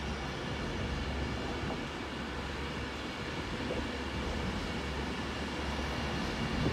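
Avanti West Coast Class 390 Pendolino electric train running out along the line, a steady train noise with no sudden changes.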